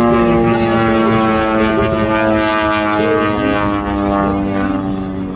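Pitts S-1 aerobatic biplane flying past at high speed. Its engine and propeller make a loud buzzing drone whose pitch falls slowly as it passes.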